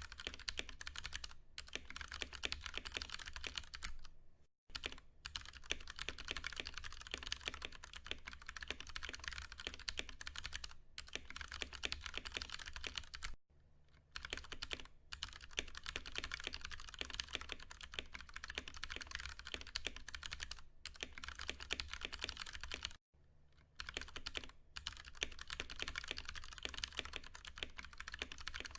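Continuous fast typing on a Ducky One 2 Mini mechanical keyboard with tactile Cherry MX Brown switches, a dense stream of key clacks that breaks off briefly three times, over a faint low hum.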